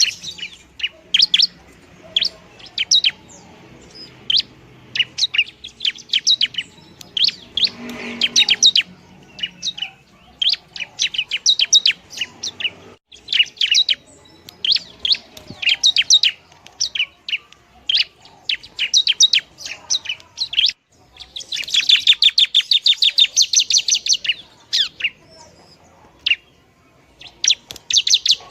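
Long-tailed shrike (pentet) singing: runs of sharp, high chirps repeated in quick series, with a long fast chattering run about three quarters of the way through.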